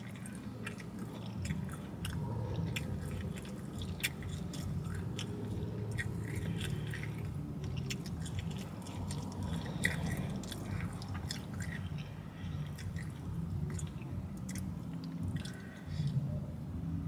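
A person chewing a mouthful of a Chipotle bowl with lettuce and vegetables close to the microphone: many short wet mouth clicks and smacks, with a little crunching, over a steady low hum.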